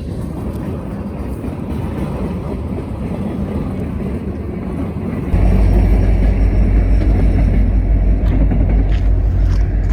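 Norfolk Southern freight train rolling past with a steady rumble. About five seconds in, a sudden, much heavier low rumble sets in as the train's rear distributed-power (DPU) diesel locomotive comes by.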